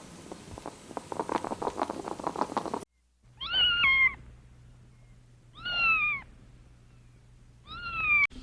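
Domestic cat meowing three times, each meow a single high call that falls in pitch. Before the meows, a dense run of short clicks and crackles cuts off abruptly.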